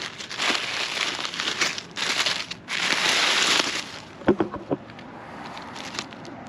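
Crunching and crinkling of dry, fire-burned debris being rummaged through by hand, in repeated bursts for about four seconds, then quieter with a few faint short sounds.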